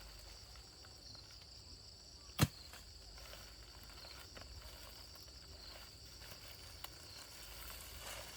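Insects chirring steadily at a high pitch, with one sharp knock about two and a half seconds in.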